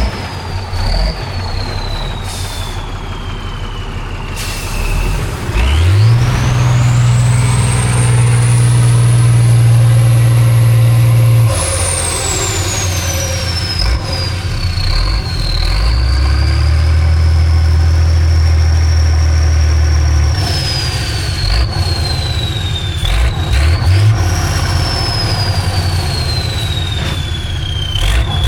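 Heavy off-road trial truck's engine working hard, revving up and holding high twice with drops in between, with a high whistle that rises and falls with the revs. A few short sharp knocks come near the end.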